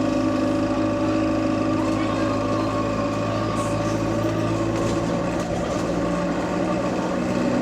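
Bus ENL59's engine running with a steady drone and a high whine over it, heard on board; the bus is in limp mode with a faulty turbo.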